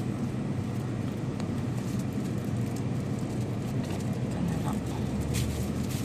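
Steady low rumbling background hum with a few faint clicks; a deeper hum swells for about a second and a half near the end.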